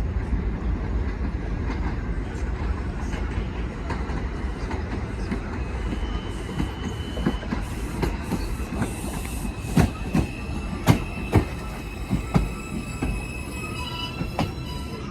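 New York City subway 4 train pulling into the station: a steady rumble, a run of sharp clacks from the wheels over rail joints around the middle, and a high-pitched wheel and brake squeal from about six seconds in that grows as it slows.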